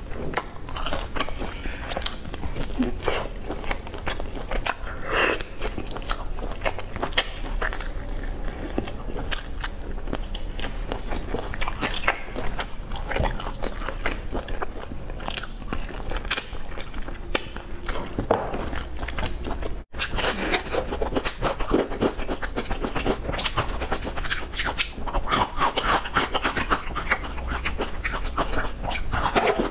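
Close-miked chewing and crunching of crispy breaded fried chicken, a dense run of crackly bites and mouth sounds picked up by a lapel microphone. There is a momentary dropout about two-thirds of the way through.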